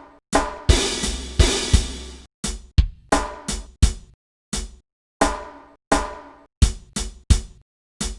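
Drum kit playing a slow hip-hop groove of separate kick, snare and hi-hat hits with short gaps between them. A cymbal crash rings out for about a second near the start.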